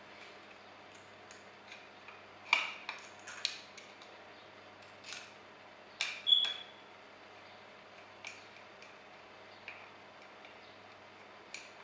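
Small metal parts clicking and clinking as exhaust mounting bolts, washers and threaded inserts are handled and lined up against the engine, with a few louder knocks and one brief metallic ring partway through.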